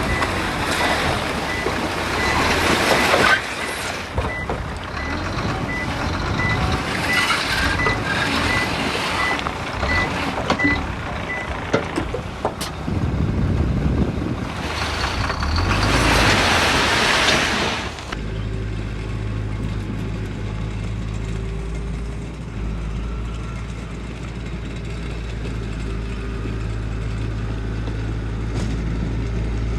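Heavy diesel construction vehicle working, with a reversing alarm beeping steadily for the first dozen seconds or so and loud swells of machine noise. About two-thirds of the way in the sound changes abruptly to a diesel engine idling steadily.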